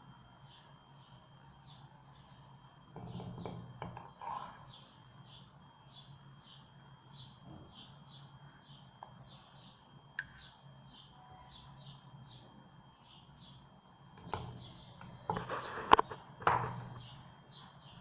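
A bird chirping over and over, about three short chirps a second. A spoon scrapes and knocks against a tin can and a mug a few seconds in and again near the end, with the loudest sharp clink near the end.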